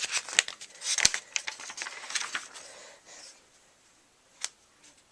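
Paper rustling with a run of sharp clicks and taps as a page of a handmade booklet is turned, then a single click near the end.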